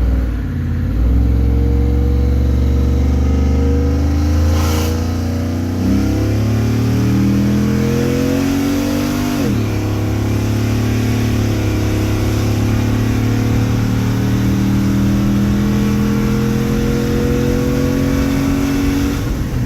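Chevy Silverado's LS V8 accelerating hard at wide-open throttle: the revs climb, drop sharply with a gearshift about halfway through, then climb steadily again.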